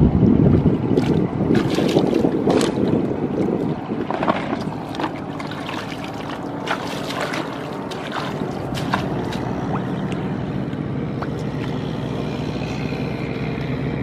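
Tractor engine running steadily, with a louder rushing noise over the first few seconds and scattered sharp clicks.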